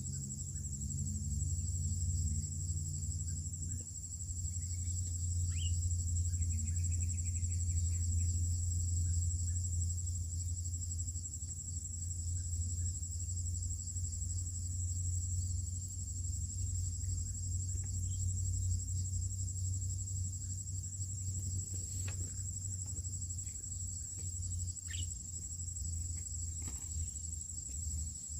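Steady high-pitched drone of an insect chorus, such as crickets or cicadas, over a low continuous rumble, with a few brief faint bird chirps.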